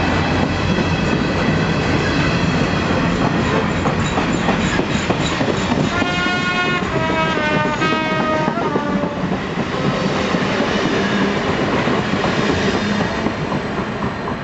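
Canadian Pacific Holiday Train cars rolling past with a steady rumble and the clatter of wheels over rail joints, fading near the end as the last car passes. From about six seconds in, a horn sounds for about three seconds, its pitch stepping down partway through.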